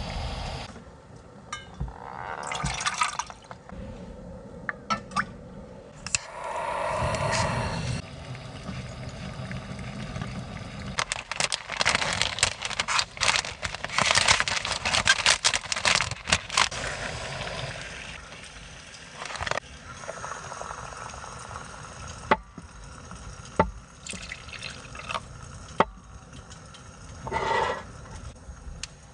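Water being poured and dripping in a few short spells, among scattered clicks and knocks of things being handled, with a denser crackling stretch in the middle.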